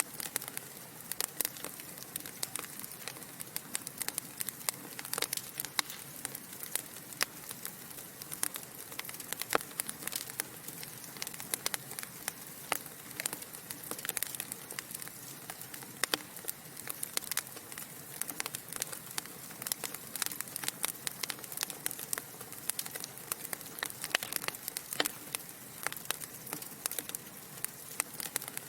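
Wood fire burning in a fireplace: a steady hiss with dense, irregular crackles and pops from the burning logs.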